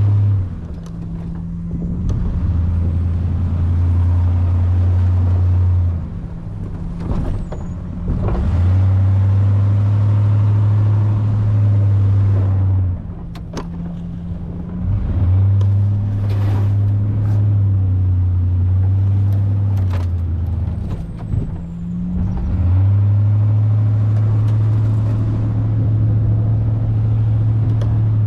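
Ford plow truck's engine running with a loud, steady, deep hum while plowing snow. It falls away and comes back several times, with a few sharp knocks in between.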